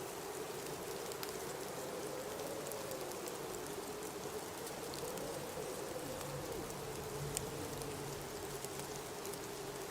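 Blizzard wind howling: a low moan that wavers slowly in pitch over a steady hiss of blowing snow, with scattered faint ticks.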